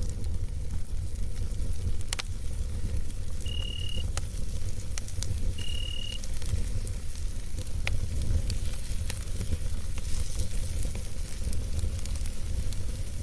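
Campfire burning: a steady low rumble with scattered sharp crackles and pops from the burning wood. Two short high steady tones, each about half a second long, come a few seconds in, about two seconds apart.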